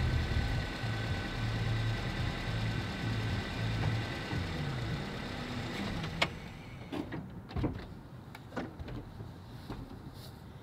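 A car engine running with a low hum that fades away over the first six seconds, followed by a few scattered sharp clicks and knocks.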